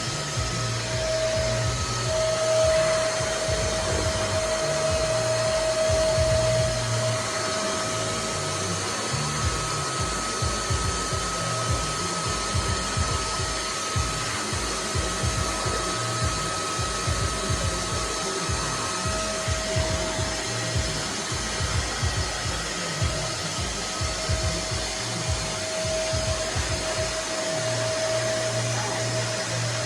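Nunix wet and dry vacuum cleaner running steadily: a loud motor rush with a steady whine, over an uneven low rumble.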